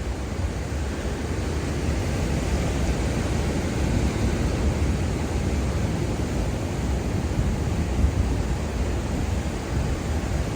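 Ocean waves breaking on a beach in a steady wash, with heavy low wind rumble on the microphone.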